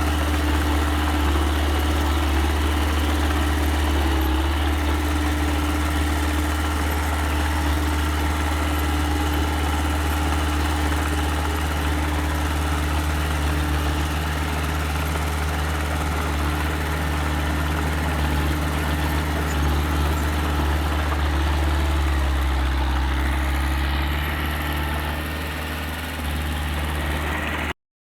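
Diesel engine of a small earthmoving machine running steadily with a deep hum. Near the end the level dips briefly and the pitch shifts a little, then the sound cuts off abruptly.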